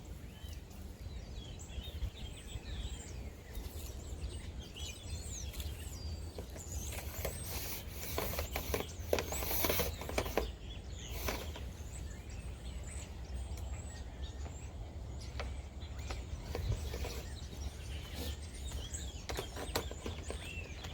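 Outdoor background of small birds chirping over a steady low rumble. From about seven to eleven seconds in there is a stretch of rustling and scraping noise.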